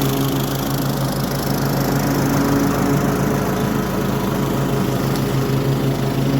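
Toro HDX 30-inch self-propelled walk-behind mower with its mulching kit, engine running steadily while mowing grass.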